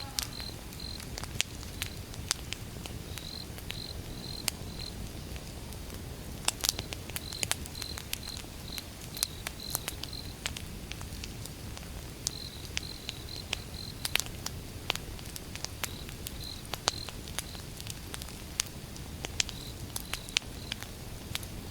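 Campfire wood burning, crackling with irregular sharp pops over a low steady rumble. A cricket chirps in short runs of evenly spaced pulses that stop and start.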